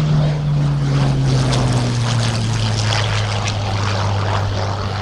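Hawker Hurricane Mk.IV's Rolls-Royce Merlin V12 engine and propeller on a low display pass. The engine note drops in pitch through the first few seconds as the fighter passes, then levels off.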